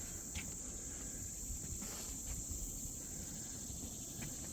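Steady high-pitched chorus of insects, most likely crickets, with a few faint ticks.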